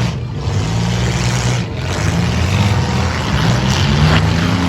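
Several six-cylinder demolition derby cars' engines revving hard, several pitches rising and falling together over a rough exhaust noise.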